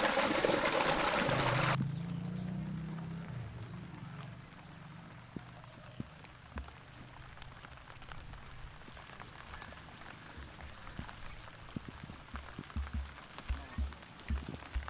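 A splashing, rushing noise that cuts off suddenly about two seconds in, then quiet outdoor ambience with short high chirps repeating throughout, most likely birds, and scattered soft low thumps.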